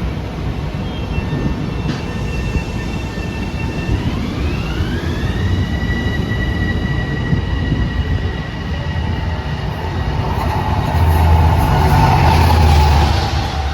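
Long Island Rail Road train running at the station, with a high whine that rises in pitch about four seconds in and then holds steady, over a low rumble of the train. The rumble grows louder near the end.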